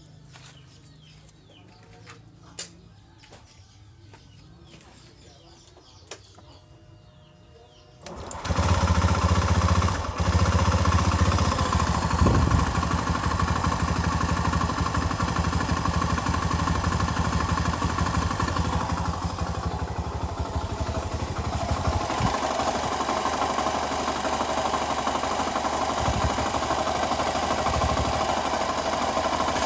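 Honda Beat FI scooter engine, running with its CVT drive belt removed, starts about eight seconds in after a few faint clicks and keeps running with a harsh rustling noise, like water about to boil in a pan. The mechanic suspects a worn crankshaft bearing.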